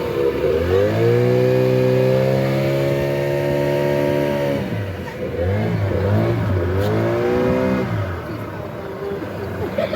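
Motorboat engine at high speed: its pitch rises about half a second in and holds steady for a few seconds, then wavers up and down as the throttle changes and falls away near the end.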